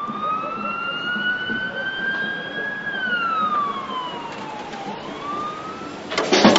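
Siren wailing: one slow rise in pitch, a longer fall, then the start of another rise. Loud drum beats come in near the end.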